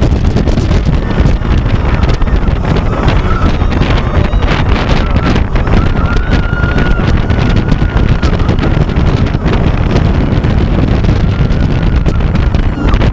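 Heavy wind buffeting a head-mounted camera microphone with a steady rumble from a hydraulic-launch roller coaster train (Xcelerator) running on its track. A thin high whine is held through the middle.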